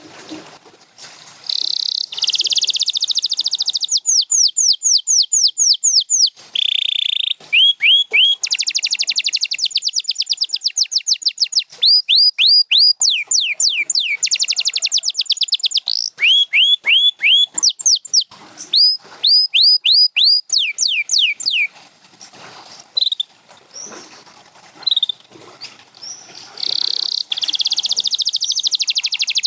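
Domestic canary singing a long, loud song made of phrases: runs of repeated high whistled notes that each slide downward, about four to five a second, alternating with fast, rattling trills. The song thins out briefly past the middle, then picks up again with another trill and run of sliding notes near the end.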